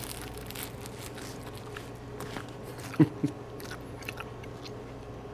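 Biting into and chewing a pepper and egg sandwich on crusty French bread, with scattered small clicks from the bread and filling.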